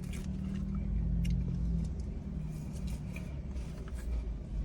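Steady low hum with a few light clicks and taps scattered through it.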